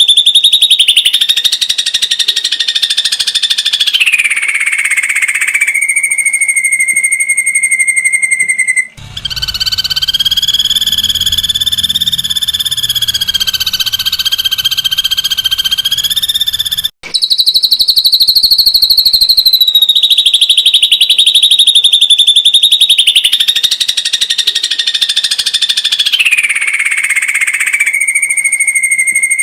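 Ashy drongo giving long runs of very fast, buzzy rapid-fire 'tembakan' calls, each run holding one pitch, then stepping up or down. Partway through, a passage from a different recording with a low hum underneath cuts in, with brief dropouts at each splice.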